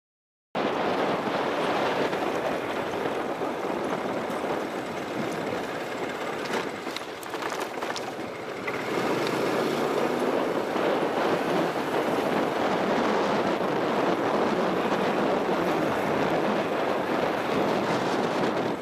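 Steady road and engine noise of a vehicle driving, cutting in abruptly about half a second in and easing slightly for a moment partway through.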